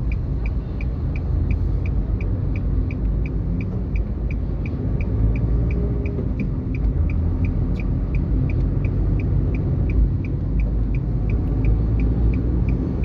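Motor vehicle running with a steady low rumble, overlaid by a regular high-pitched ticking about four times a second.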